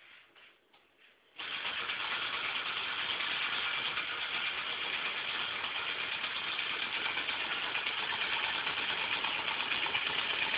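Homemade steam engine starting abruptly about a second and a half in, after a few faint clicks, then running steadily and loudly for the rest of the time.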